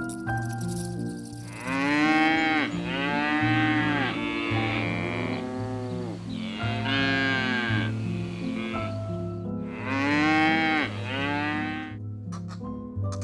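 An animal calling in a series of about five drawn-out calls, each rising and then falling in pitch, over soft background piano music.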